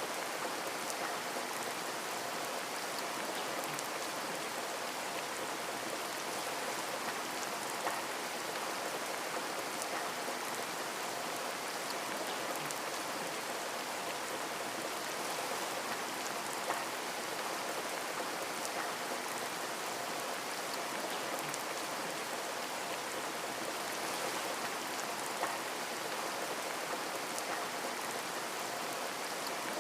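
Steady rain on a window: an even hiss of rainfall with scattered individual drops tapping on the glass, a few slightly louder taps here and there.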